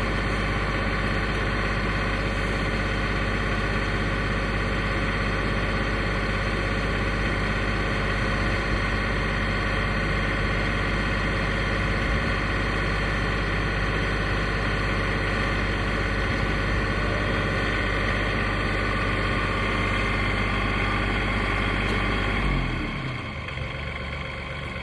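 Portable sawmill's engine running steadily at working speed, then dropping to a lower idle about 22 seconds in as the throttle comes off.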